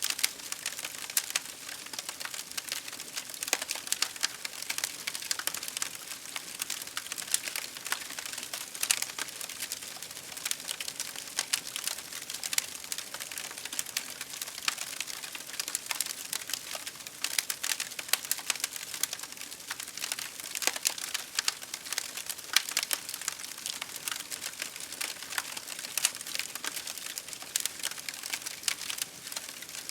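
Campfire crackling: a dense, irregular stream of small sharp pops and snaps from burning wood, over a soft hiss.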